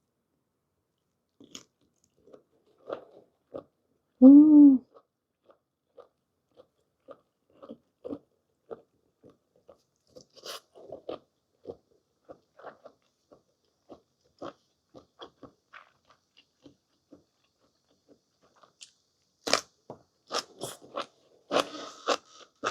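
Close-miked chewing of boiled whole squid: soft wet chews and mouth clicks, with a brief 'mm' hum of enjoyment about four and a half seconds in. A few louder, sharper sounds come near the end.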